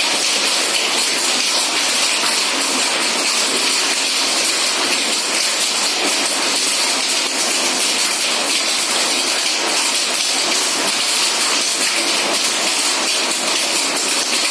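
Hail and heavy rain pouring down: a steady hiss dense with small ticks of hailstones striking.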